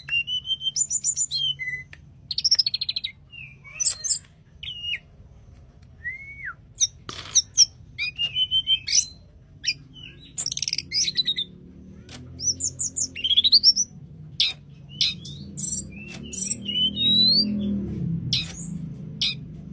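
Tledekan gunung songbird singing a flute-like whistled song: short rising and falling slurred whistles, fast trilled phrases and sharp clicks in quick succession. A low hum underneath grows louder in the second half.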